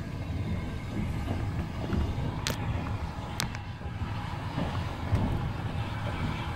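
A steam-hauled passenger train running along the track, heard from aboard: a steady low rumble, with two sharp clicks about a second apart around the middle.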